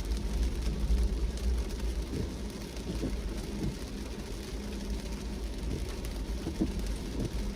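A car driving in rain: a steady low road and engine rumble with the noise of rain falling, and a few faint ticks.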